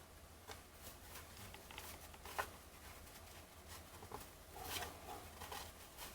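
Baseball trading cards being flipped through by hand: faint, irregular clicks and slides of card stock, a little louder about two and a half seconds in and again near five seconds, over a low steady hum.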